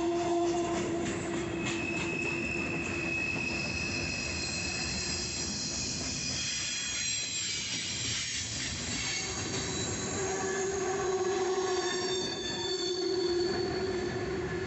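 Freight cars of a CSX mixed freight train rolling by, their steel wheels squealing against the rails in several steady high tones that fade and return, over a continuous rumble of wheels on track.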